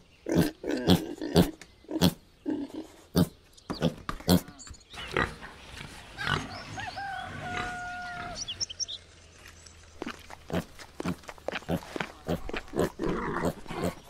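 Domestic pigs grunting, many short grunts in quick succession. In a quieter stretch in the middle there are a couple of brief, steady, high whistling tones.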